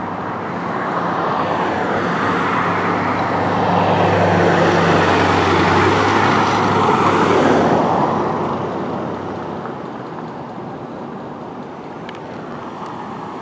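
Fire truck's diesel engine and road noise as it drives past: it builds to a peak about midway, then fades as it moves away.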